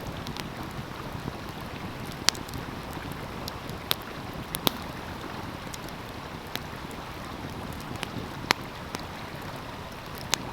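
Wood fire crackling, with scattered sharp pops every second or two, over the steady rush of a running stream.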